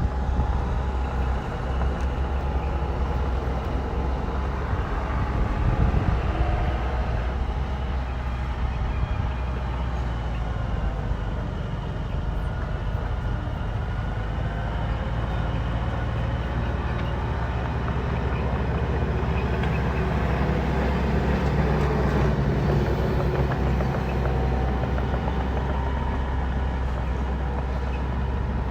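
Bulldozer's diesel engine running under load with a steady deep rumble, its pitch shifting slightly a few times as it works.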